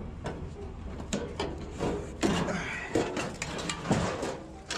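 Irregular clanking and rattling of a loose, falling-apart metal barbecue grill being handled and lifted, with a string of sharp knocks as its parts shift and bang together.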